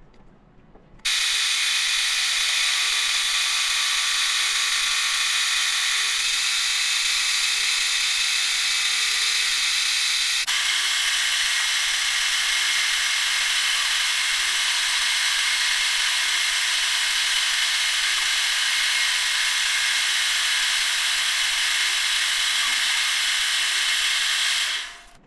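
Metal lathe running, a steady high hiss with faint whining tones. It starts abruptly about a second in and stops abruptly near the end.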